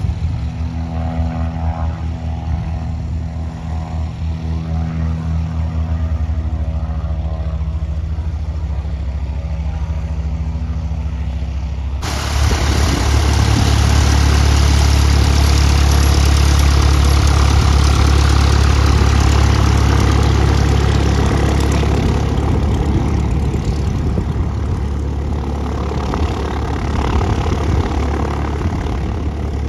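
Light propeller airplane's piston engine running at low power with a steady pitched drone, then about twelve seconds in the sound jumps suddenly to a much louder, rougher engine noise that slowly eases off toward the end.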